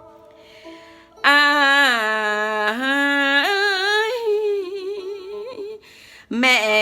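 A song's vocal line sung without words: after about a second of quiet instrumental backing, a voice comes in holding long, wavering notes that slide between pitches. It breaks off briefly and starts again near the end.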